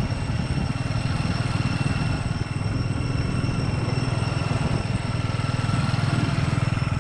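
Motorbike engine running at a steady cruising speed, with wind and road noise from riding.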